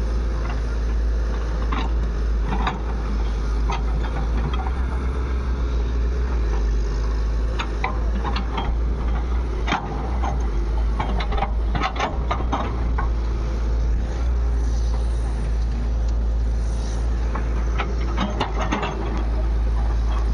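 Heavy diesel machinery engine running steadily with a deep drone, with scattered sharp knocks, clustered about halfway through and near the end.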